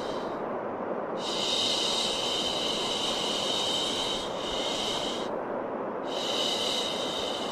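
Drawn-out "shhh" shushing sounds for calming a baby, layered over a steady white-noise hiss. One long shush starts about a second in and lasts about four seconds, and a second one starts near the end.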